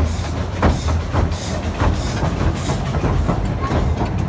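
Train running along its track: a steady low rumble with a regular clatter of wheels over the rail joints, a bit under two knocks a second.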